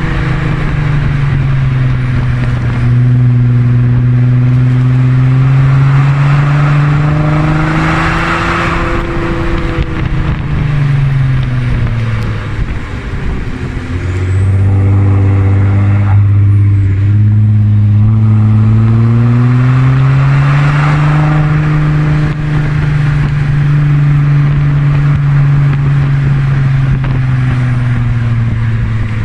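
Straight-piped exhaust of an Audi A4 B7 3.0 TDI V6 diesel, a loud deep drone that slowly rises and falls in pitch as engine speed changes. It climbs in the first few seconds, drops back around the middle, then climbs again and falls away near the end.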